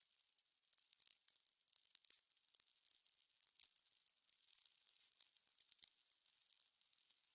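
Fire crackling: a soft steady hiss with irregular small pops and snaps several times a second.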